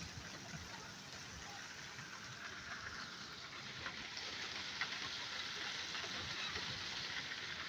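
Heavy rain falling and pattering on surfaces: a steady hiss scattered with the ticks of single drops, growing a little louder about three seconds in.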